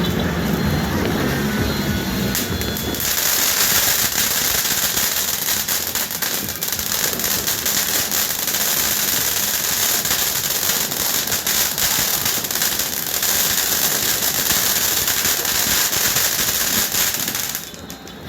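Firecrackers and fireworks going off in a dense, continuous crackle of rapid bangs, starting about three seconds in and cutting off abruptly just before the end.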